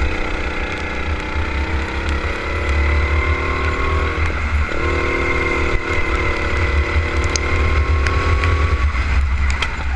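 Kart engine running hard under throttle, its pitch gliding slightly. It cuts out briefly about four seconds in and again near the end as the throttle is lifted, over a steady deep rumble.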